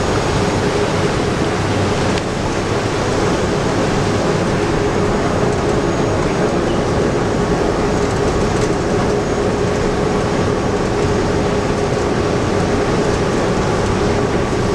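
Cog railway train running steadily on its way down the mountain, heard from a passenger seat: a constant rumble of wheels and drive with a steady hum.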